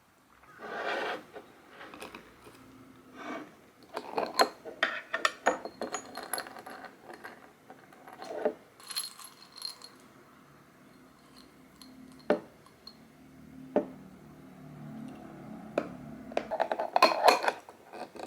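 Dishes and cutlery being handled: irregular clinks and clatters of ceramic, glass and metal being picked up and set down, some with a short ring, in bunches with quieter gaps between.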